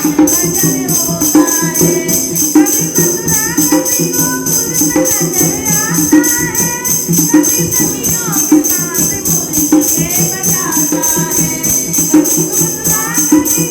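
Women singing a Krishna bhajan over a fast, steady jingling percussion beat.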